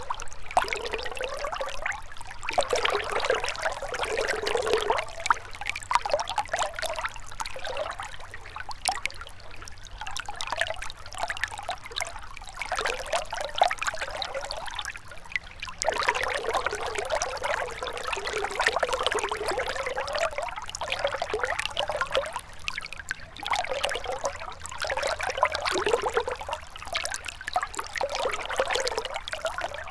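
Shallow river water trickling and gurgling over stones, a continuous babbling that swells and eases every few seconds.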